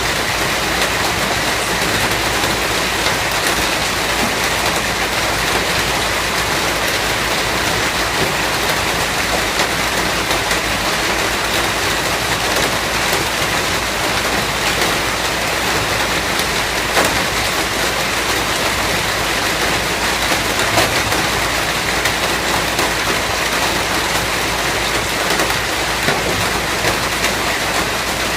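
Steady, heavy rain falling on a surface, a dense even hiss with faint scattered drop ticks.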